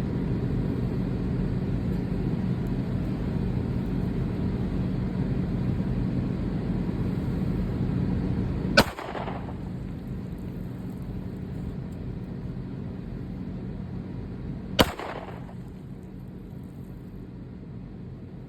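Two single pistol shots about six seconds apart, each a sharp crack with a short echo, over a steady low hum.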